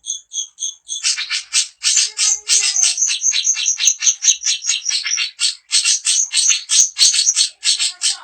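Long-tailed shrike (cendet) singing loudly: a few clear whistled notes repeated about four times a second, then from about a second in a fast, unbroken run of harsh chattering notes.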